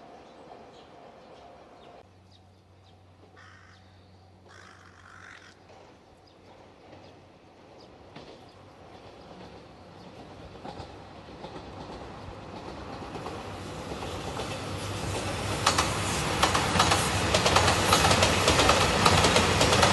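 JR Shikoku 2700 series diesel multiple unit in yellow Anpanman livery approaching and passing close by, growing steadily louder over the second half. It ends in a loud rush with the wheels clacking rapidly over rail joints.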